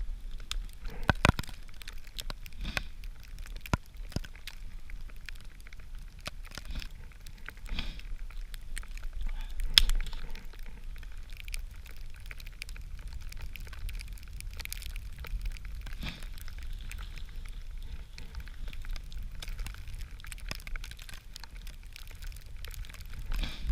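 Small campfire of birch bark and spruce wood crackling, with irregular sharp pops, the loudest about a second in, about four seconds in and near ten seconds in, over a low steady rumble of wind.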